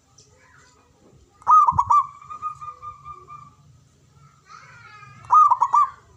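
Zebra dove (perkutut) cooing: a quick run of clipped notes about a second and a half in that trails into a long held tone, then another quick run of notes near the end. This is a lure call to set other perkutut calling.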